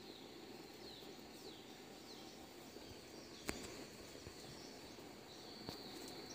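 Faint outdoor ambience: a bird gives a series of short falling chirps, a steady high tone comes in near the end, and a single sharp click sounds about halfway.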